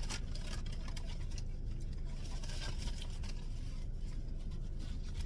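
Soft eating noises, chewing with small clicks and crackles of food and takeout containers, over a steady low rumble inside a car.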